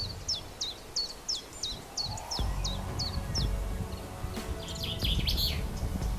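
A small songbird calling in a series of short, high, falling chirps, about three a second, stopping after about three and a half seconds; a scratchier burst of chirps comes about five seconds in, over a low rumbling noise.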